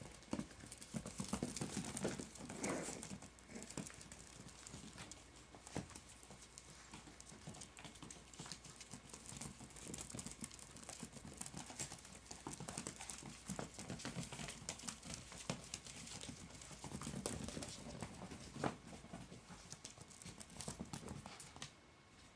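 A litter of puggle puppies running about together, their many small paws pattering and clicking in quick, irregular taps.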